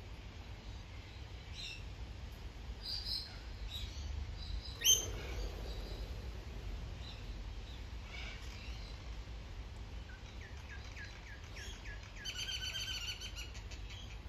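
Birds calling: scattered short chirps, one sharp loud call about five seconds in, and a rapid run of repeated notes near the end.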